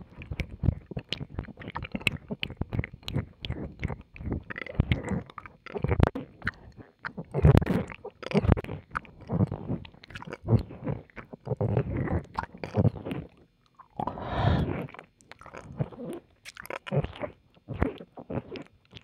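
Close-up wet mouth sounds of ear-licking ASMR: licking, kissing and lip smacks in irregular bursts, thick with small wet clicks.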